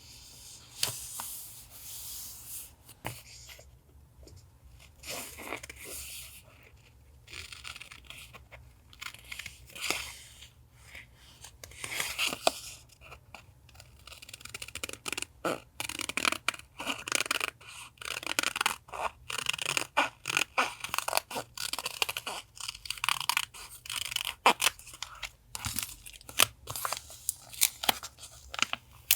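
Paper being handled for collage: rustling, tearing and crinkling of paper with small sharp taps, getting busier in the second half.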